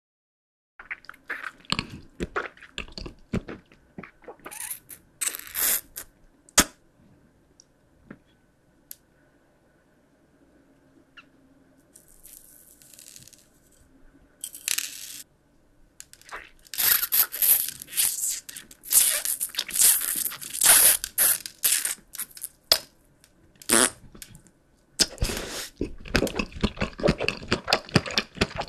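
Close-miked biting and chewing of crunchy sweets: clusters of sharp crunches, sparser in the middle, dense again through the second half.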